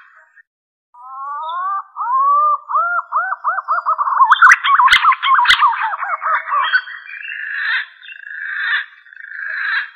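Green pigeon (punai) song played as a hunting lure: a couple of rising whistled notes, then a quick run of looping whistles that speeds up and grows louder, breaking into rougher, hoarser notes toward the end. Two sharp clicks fall in the middle.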